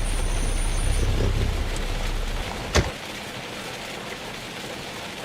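Rain with the low rumble of a car heard from inside. About two and a half seconds in there is a sharp click, and the low rumble stops, leaving only the rain.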